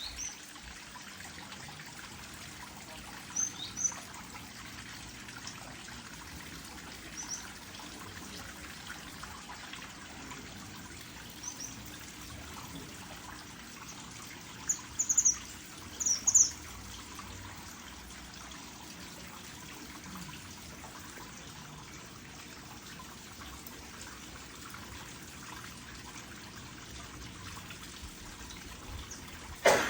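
Small aviary birds giving short, high chirps now and then, with a quick cluster of louder chirps about halfway through, over a steady hiss like trickling water.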